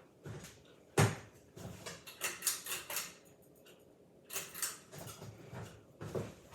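A sharp knock about a second in, then irregular clattering and scraping, with another knock near the end.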